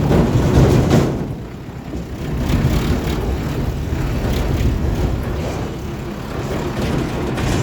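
Tractor engine running while the tractor is under way, a steady low rumble.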